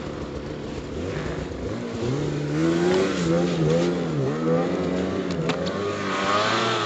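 Snowmobile engine revving, its pitch rising about two seconds in, then swinging up and down with the throttle, with a few brief clicks near the end.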